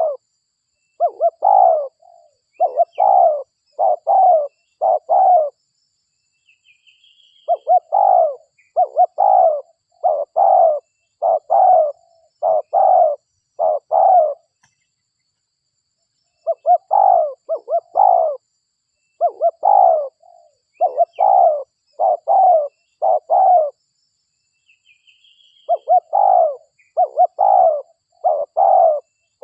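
Spotted dove (derkuku) cooing: phrases of five or six quick, low coos, each phrase a few seconds long with short pauses between, four phrases in all. Faint high chirps fall in the pauses.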